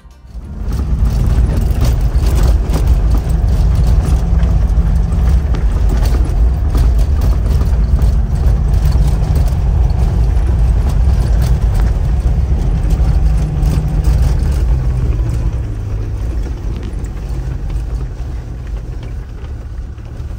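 Old Land Rover Defender driving over rough meadow ground: a loud engine rumble under way, with clattering and rattling from the body over the bumps. It comes in about half a second in and eases off somewhat near the end.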